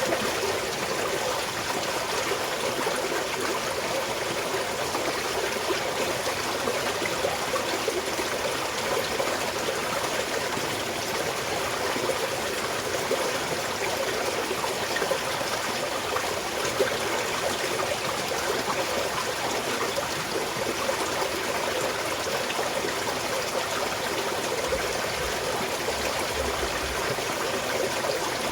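Small mountain stream flowing steadily, a continuous babble of trickling water.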